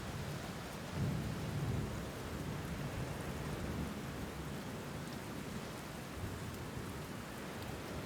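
Steady rain falling, with a low rumble that swells about a second in and eases off over the next second or so.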